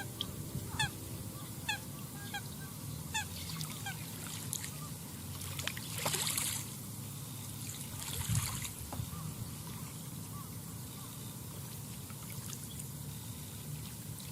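Waterbirds on the lake calling in a run of short, falling notes, roughly two a second for the first four seconds or so, over the gentle lapping of lake water at the shore. A brief rush of noise comes about six seconds in and again around eight seconds.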